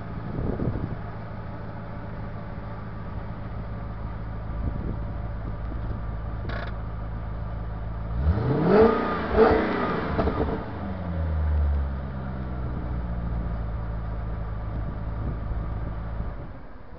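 V8 engine of a V8-swapped Audi Coupe idling with a low, steady burble while the car creeps forward. About eight seconds in it is revved twice in quick succession, then settles back to idle, and the engine note stops just before the end.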